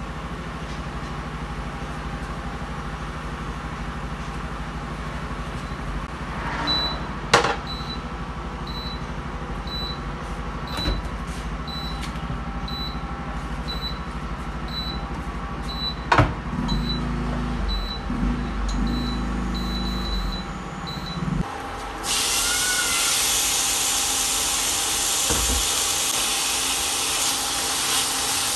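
Steady electrical hum from an induction cooktop, with faint regular high ticks and two sharp clicks. About three quarters of the way in it gives way to a loud, steady sizzle of pork belly frying in a pan.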